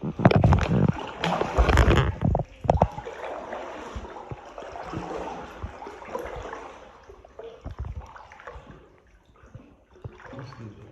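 Kayak paddles dipping and splashing in the water, with knocks and bumps that are loudest in the first few seconds, then fading to quieter water sounds and occasional light clicks.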